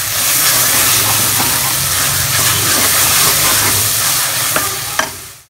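Onion, tomato, mint and coriander masala sizzling as it fries in a pressure cooker pan and is stirred with a spatula: a steady hiss with a low hum beneath, a couple of light spatula ticks near the end, then it stops abruptly.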